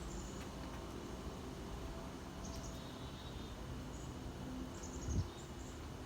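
Small birds giving short, high chirps here and there over a steady low outdoor rumble, with a brief low thump about five seconds in.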